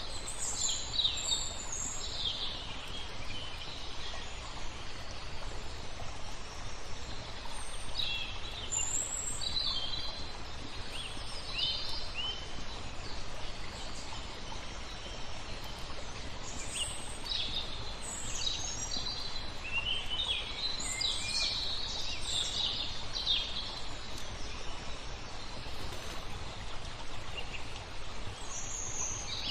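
Songbirds chirping in scattered clusters of short calls over a steady rush of flowing water, with faint crackles of a wood fire.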